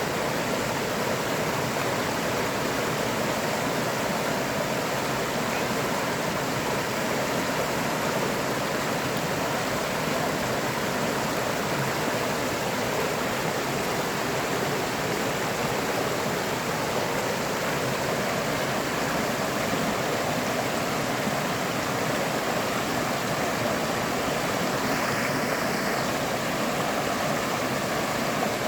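River water flowing steadily, an even unbroken rush of running water.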